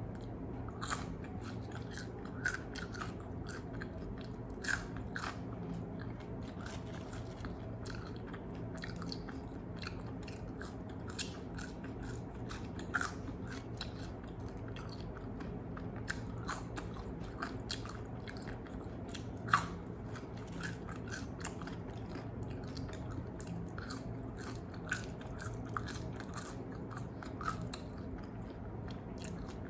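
Close-miked eating sounds: bites into crispy fried chicken wings and chewing, with irregular sharp crunches of the fried skin over a steady low hum, the loudest crunch a little past the middle.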